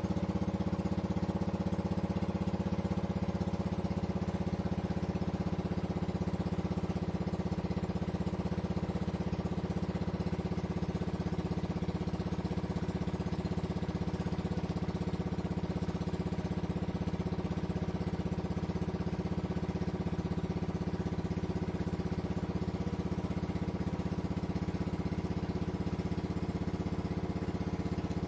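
A river boat's engine running steadily at an even speed, a constant low drone.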